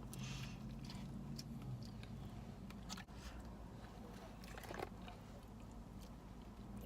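Close-up eating sounds: a person chewing and biting food, with scattered small clicks over a steady low hum.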